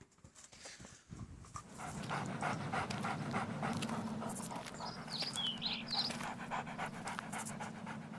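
Six-week-old puppies panting in a fast, regular rhythm, with a few short high squeaks about five seconds in.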